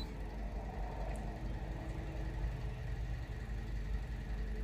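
2003 Infiniti G35's 3.5-litre V6 idling steadily and faintly, running rough from a misfire.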